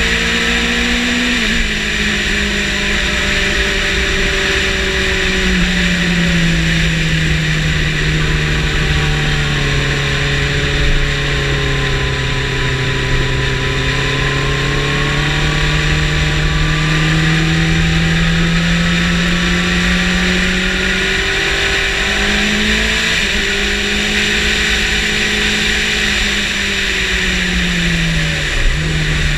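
Yamaha motorcycle engine at speed on a race track, held at fairly steady revs for a long stretch with gentle rises and falls, and sharper pitch changes from gear shifts about a second and a half in and near the end. Heavy wind rush on the onboard microphone runs under the engine.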